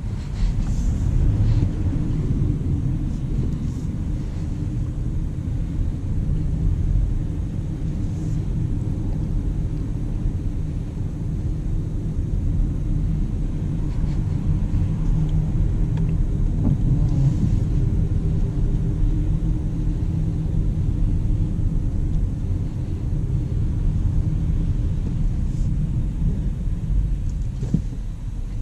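Steady low rumble of a 2019 Jaguar I-Pace electric car on the move, mostly road and tyre noise, with no engine note.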